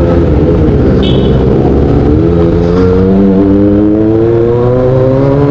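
Kawasaki ZX-25R's 250 cc inline-four running loud through an Austin Racing GP1R short aftermarket exhaust, pulling away under acceleration, its pitch climbing steadily from about two seconds in.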